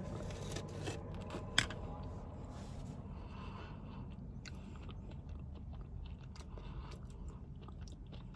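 Quiet close-miked chewing of fast food, with small scattered mouth clicks and one sharp click about one and a half seconds in, over a low steady hum.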